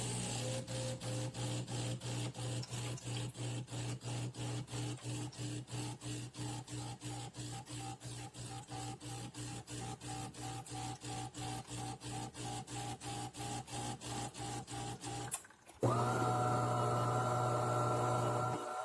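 De'Longhi Dinamica automatic espresso machine running: an even mechanical pulsing of about three to four beats a second over a steady hum for some fifteen seconds. It stops briefly, then gives way to a steady whirring hum with a high whine.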